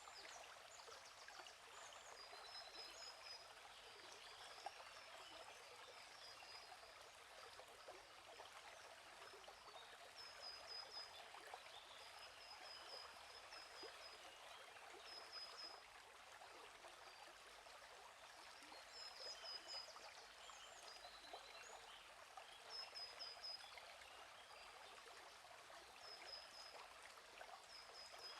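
Faint, steady rush of a gently flowing stream, with a bird calling short, high chirps in little groups every few seconds.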